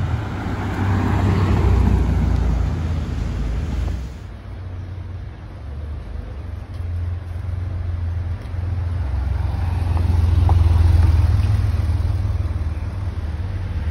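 Cars passing at street speed. A Porsche Panamera's engine swells and fades in the first few seconds. Then an air-cooled Porsche 911 Cabriolet's flat-six engine approaches and drives past, loudest about ten to eleven seconds in.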